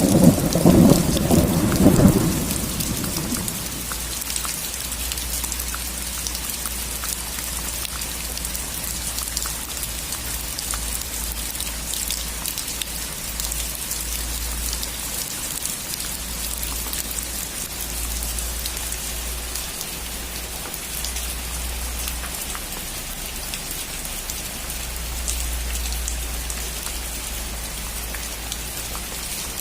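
Steady rain falling on a roof, with a loud thunderclap right at the start that rumbles away within about three seconds. After that only the even rain and a low background rumble continue.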